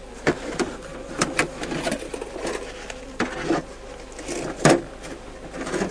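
Honeybees buzzing steadily around a Langstroth hive, broken by about six sharp clicks and knocks as the hive clip is fastened back on; the loudest knock comes near the end.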